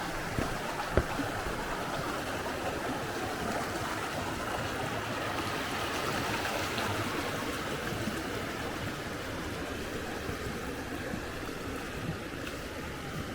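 Mountain stream running steadily over rocks. There is a sharp knock or two about a second in.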